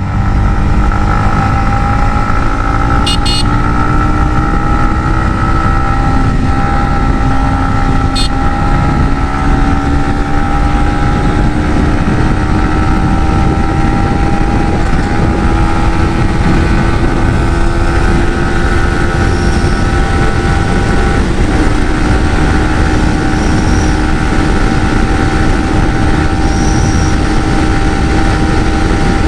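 Yamaha MT-15's single-cylinder engine running hard at speed, its pitch climbing slowly and steadily, then dropping a little about two-thirds of the way through and holding steady, under a heavy rush of wind noise.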